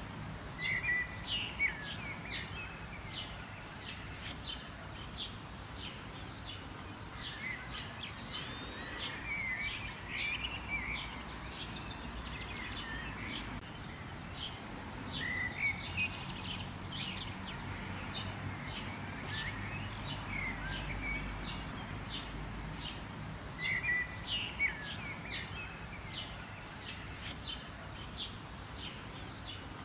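Several birds chirping and singing in rapid short notes and quick sweeping phrases, with louder bursts of song now and then, over a steady low background hum.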